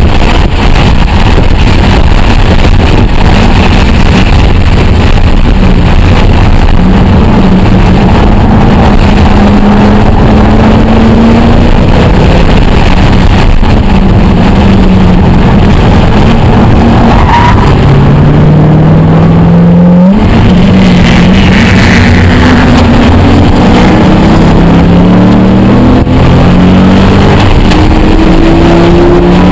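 Roush 427R Mustang's supercharged V8, heard from inside the cabin at full track pace. The engine pitch climbs under acceleration and drops back at each gear change, several times over, with a sharp break near the two-thirds mark before it climbs again.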